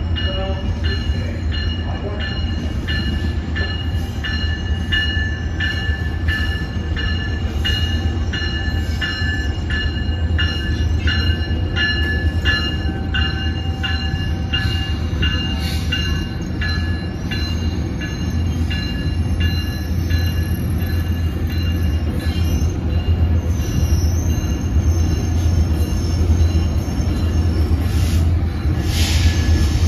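Passenger train rolling slowly, its wheels clicking over rail joints about twice a second with a high squeal from the wheels, over a steady low rumble. A brief hiss near the end.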